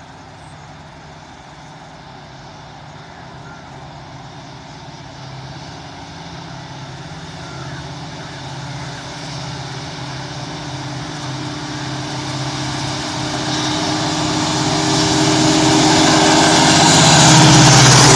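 EMD diesel locomotive approaching with its train, the engine's steady drone growing louder throughout. A broad rushing noise swells over the last few seconds as it draws near.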